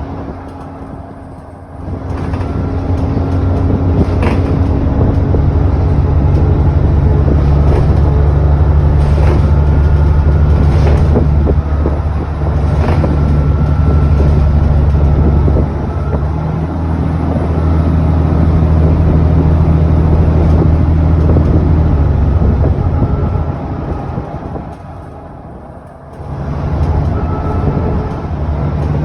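ADL Enviro400 double-decker bus heard from on board, its diesel engine pulling hard under acceleration from about two seconds in, with a gear change around the middle. It eases off for a few seconds, then pulls away again near the end, over a faint high whine that rises and falls.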